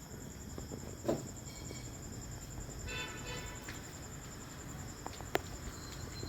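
Caged pet birds: a short chirp about three seconds in and a few sharp clicks or taps, over a steady high, pulsing trill.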